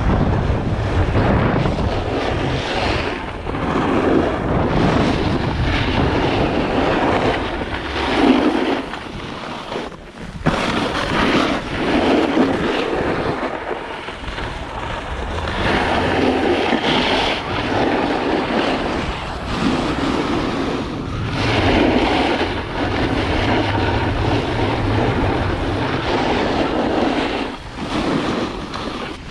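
Wind rushing over the microphone and a snowboard sliding across snow, swelling and easing every couple of seconds.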